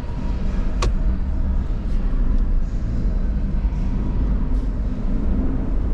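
Car engine and road noise heard from inside the cabin while driving, a steady low rumble. There is a single sharp click a little under a second in.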